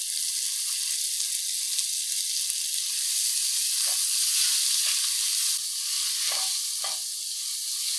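Chopped bacon and freshly added diced onion frying in butter in a pot, a steady sizzle. About halfway through a spatula starts stirring them, adding a few soft scrapes.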